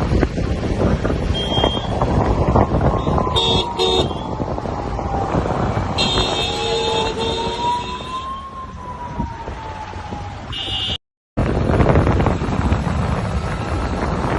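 Street traffic noise with heavy rumble and wind on the microphone; vehicle horns sound about three and a half seconds in and again for over a second from about six seconds in, over a faint tone that slowly slides down and back up. The sound cuts out for a moment near eleven seconds.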